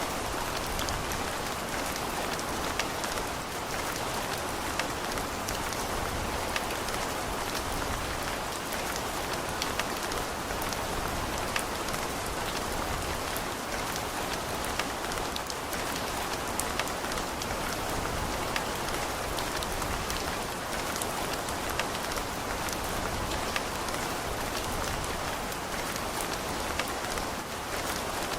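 Steady rain falling, a constant hiss with individual drops ticking sharply on hard surfaces scattered through it.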